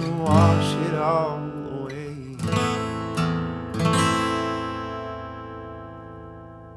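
Acoustic guitar playing the song's final bars: a few strummed chords, then a last chord left to ring and fade out.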